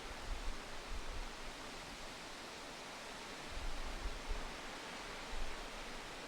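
Steady hiss of shop room tone, with a few faint low bumps near the start, around the middle and late on.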